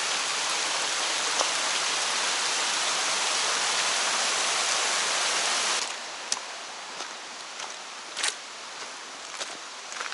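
Steady rush of a mountain stream, which drops away suddenly about six seconds in, leaving a quieter background with a few scattered footstep crunches on the trail.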